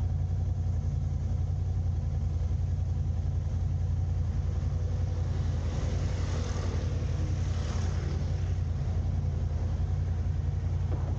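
Car driving through city streets: a steady low rumble of engine and road noise, with a swell of higher hiss around the middle.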